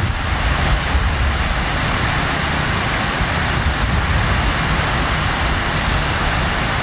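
Steady rushing water, a loud even wash with a heavy low rumble.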